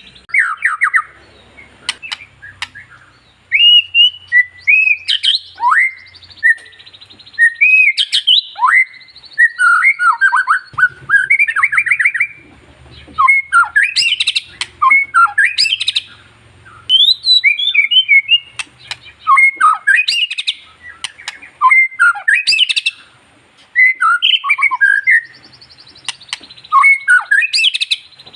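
White-rumped shama singing a long, varied song of quick whistled notes that slide up and down, with rapid trills and sharp chips. It comes in phrases of a second or two, broken by short pauses.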